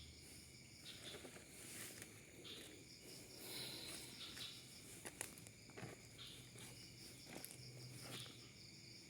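Crickets and other insects chirring steadily and faintly, with soft footsteps rustling through the undergrowth and an occasional sharp click.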